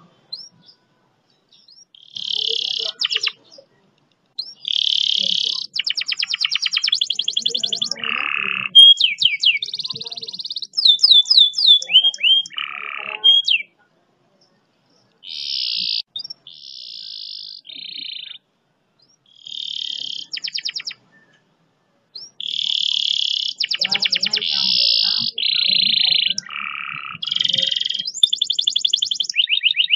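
Domestic canary singing long, fast rolled trills, phrase after phrase, with a few gliding whistled notes between them and short pauses.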